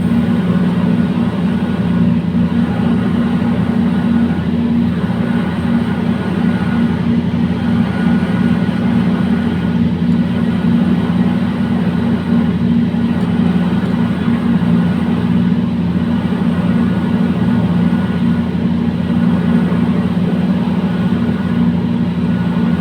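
Freight train with a WDG-class locomotive hauling hopper wagons, running with a steady low drone and a faint beat that repeats every two to three seconds.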